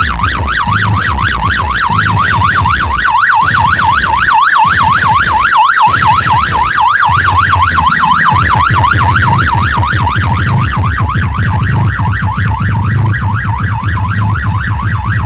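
A loud electronic siren tone warbling quickly up and down, about four sweeps a second, over a pulsing low bass beat.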